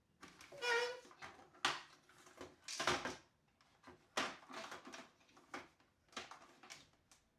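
Handling noises from small plastic and metal motor parts being worked on by hand: a series of clicks, knocks and scrapes, with a short rising squeak just under a second in.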